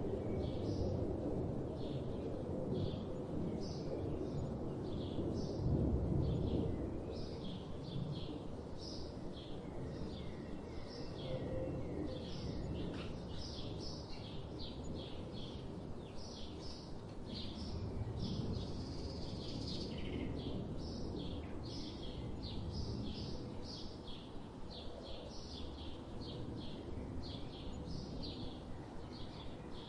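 Small songbirds chirping, with many short, high chirps one after another that grow busier about halfway through. Underneath runs a steady low rumble of background noise that swells briefly now and then.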